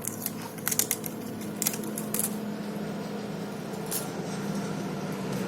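Small metal parts clinking as two-stroke piston rings are handled and laid out: a handful of short, sharp clicks spread irregularly over a few seconds, over a steady low hum.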